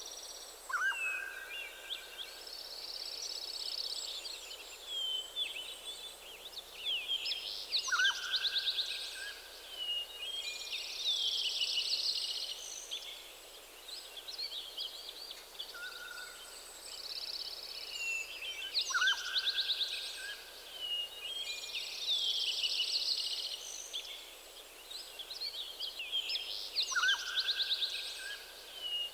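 Several birds singing together in a forest, a dense mix of high chirps and rapid trills. A lower call, a short drop followed by a held note, comes in four times.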